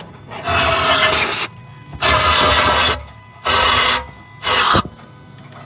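A pressurised nozzle hissing in four bursts of about half a second to a second each, with short gaps between them.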